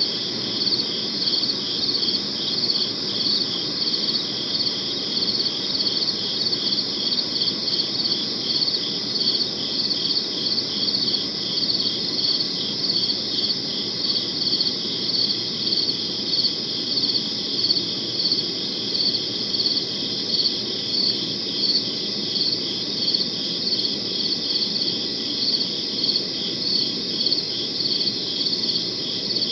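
Crickets chirping in an unbroken chorus: high-pitched, rapidly pulsed trills that go on evenly, with a soft low background hum beneath.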